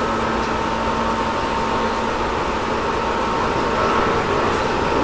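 Tobu 10000-series electric multiple unit running at speed, heard from inside the car: a steady rolling and motor noise with faint steady whines, mixed with the car's air conditioning running.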